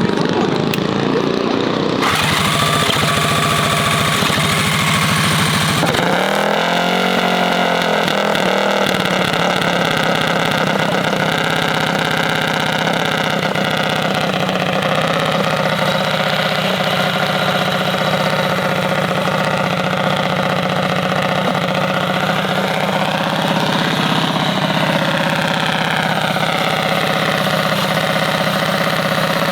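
Mini bike engine running at a steady idle, with a few quick rises and falls in pitch from about six to nine seconds in, as the throttle is blipped.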